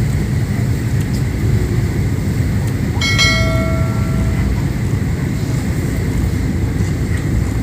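Steady low rumble of tugboat engines, with a single metallic ring about three seconds in that fades away within about a second and a half.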